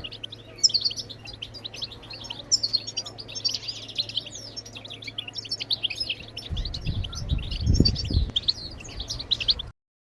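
European goldfinch twittering: a fast, continuous run of high chirps and trills. A low rumble comes in about two-thirds through, and the recording cuts off abruptly near the end.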